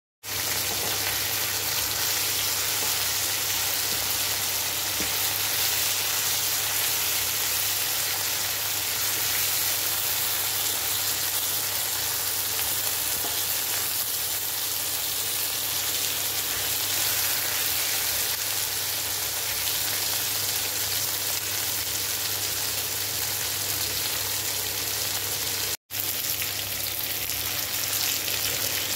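Chicken pieces with onion and garlic sizzling steadily as they fry in a nonstick pan, turned now and then with a wooden spatula, over a steady low hum. The sound cuts out for a moment near the end, then the frying goes on with cut green beans added to the pan.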